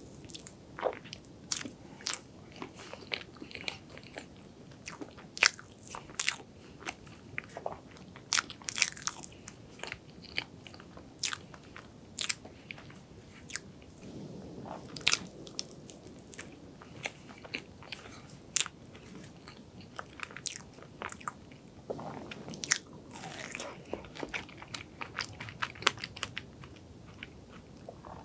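Close-miked eating of soft chocolate cream cheese cake: chewing and mouth smacks with many sharp, irregular clicks.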